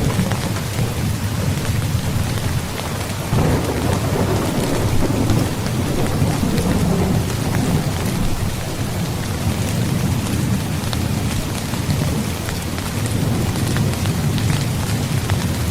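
Heavy rain falling steadily, with rolling thunder: a low rumble swells suddenly about three seconds in and rolls on for several seconds, and another rumble builds later.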